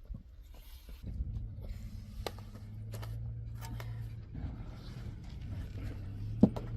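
A vehicle engine running with a steady low hum that starts about a second in and cuts off near the end, with scattered light clicks and taps over it.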